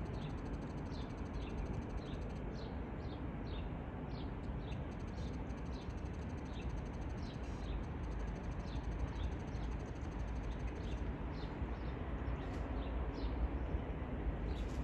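A small bird chirping again and again in short, high, falling notes, over a steady low rumble.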